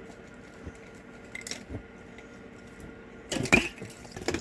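Plastic toy parts being handled: a few light clicks, then a short burst of clattering about three and a half seconds in, with a smaller clatter near the end.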